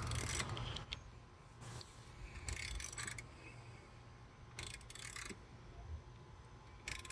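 Hand ratchet clicking in short runs, about five with pauses between, as the alternator bolts are turned.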